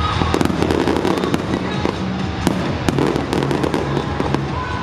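Aerial firework shells bursting in quick succession, a rapid, continuous run of bangs and crackles from a multi-shell fireworks display.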